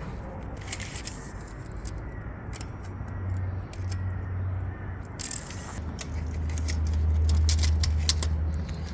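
A steel plate being manoeuvred into position: scattered metallic clinks and knocks over a low motor hum that swells twice, loudest near the end.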